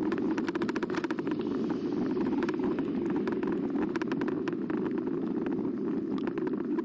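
Riding noise from a camera mounted on a moving e-bike: a steady rumble of wind and tyres, with runs of rapid clicks and rattles, thickest in the first few seconds.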